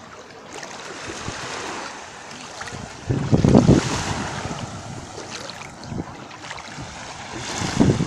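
Small waves of the calm Black Sea lapping and splashing at the shoreline, with a louder surge about three seconds in and another near the end.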